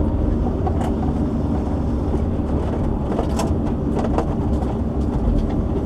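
Diesel engine of a tracked log-loading shovel running steadily, with a few light clicks and knocks from the machine.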